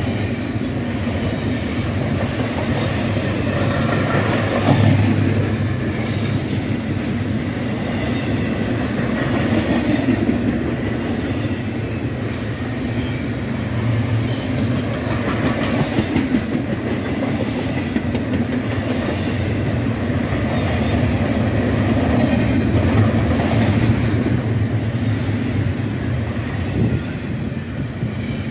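Double-stack intermodal freight train's well cars rolling past, a steady rumble of steel wheels on rail with scattered clanks from the cars.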